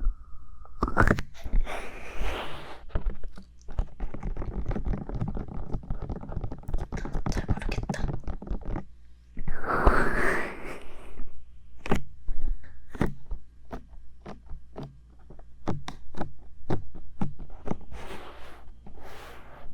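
Fingertips tapping and rubbing directly on the silicone ears of a 3Dio binaural microphone, heard close up. A fast run of tapping gives way to loud rubbing swishes and then to slower, separate taps.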